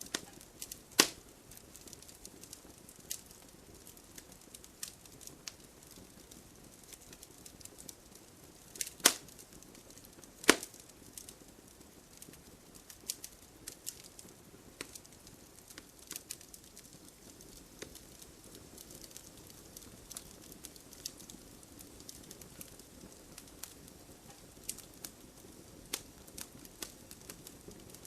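Wood fire in a fireplace crackling: scattered sharp snaps and pops over a soft low hiss, with one louder pop about a second in and two more close together about a third of the way through.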